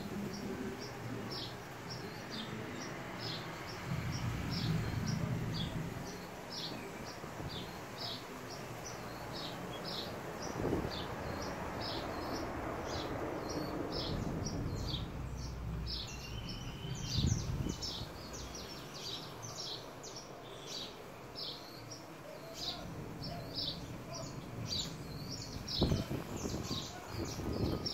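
Small birds chirping in a quick, irregular stream of short high notes, over a low rumble with a few dull knocks.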